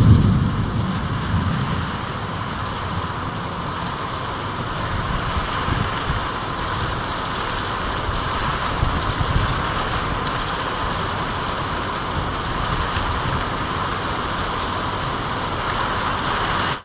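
Steady rain falling: an even, unbroken hiss, with a brief low rumble at the start.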